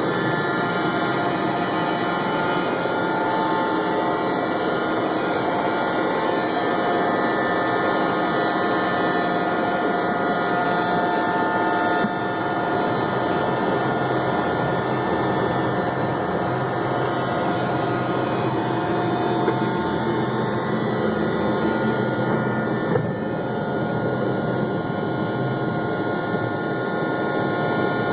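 Learjet 35's Garrett TFE731 turbofan engines running at high power, a steady rushing roar with several steady whining tones on top; the level steps down slightly about twelve seconds in.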